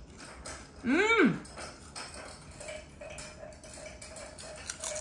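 Potato chip crunching between the teeth as it is chewed, with a short pitched 'hmm' about a second in that rises and then falls in pitch.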